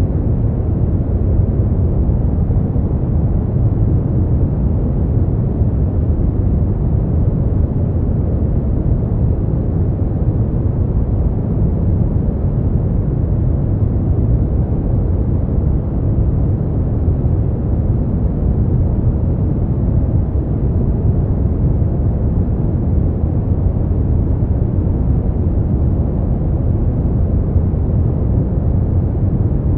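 Steady brown noise: a deep, even hiss weighted to the low end, with no change throughout.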